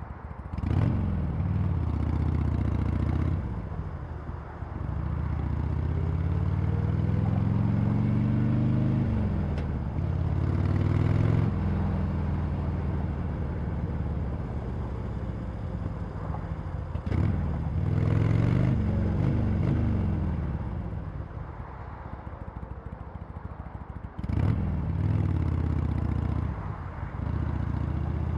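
Harley-Davidson Sportster Iron 883's air-cooled V-twin with stock exhaust, accelerating under throttle. Its note climbs and then drops sharply at each upshift or throttle roll-off, several times over, with stretches of steady running in between.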